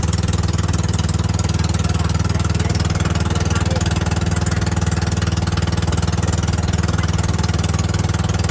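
Boat engine running steadily and loudly close by, a constant low rapid pulsing with no change in speed.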